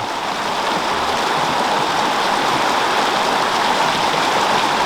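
A stream's water running in a continuous, steady rush.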